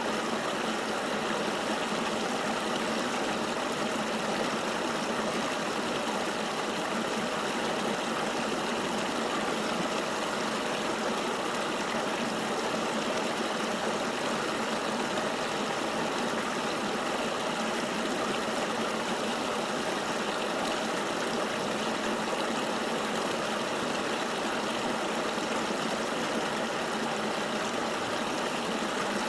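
River water flowing steadily, a continuous even rushing with no breaks or changes.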